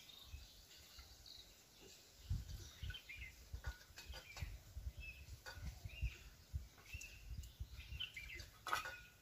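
Birds chirping in short, scattered calls, over a faint low rumble, with a few soft clicks and one sharper click near the end.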